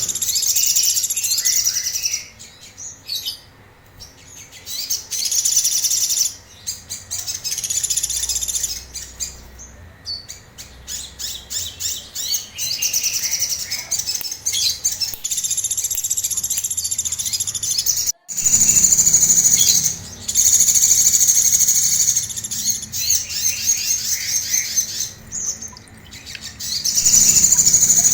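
A sogon songbird singing in very high, rapid trilling phrases a second or a few seconds long, broken by short pauses. This is the fast, harsh 'shooting' song (tembakan) that bird keepers use as training material.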